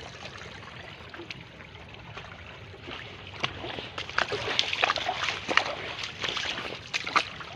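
Sea water washing and splashing. A steady wash for the first few seconds, then from about three seconds in a louder run of sharp splashes and slaps.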